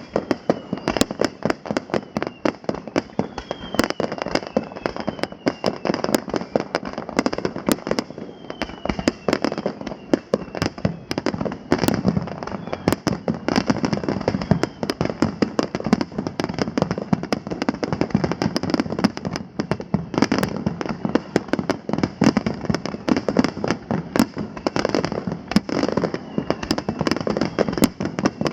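Aerial fireworks going off in a rapid, continuous barrage of bangs and crackles, with several short falling whistles mostly in the first half.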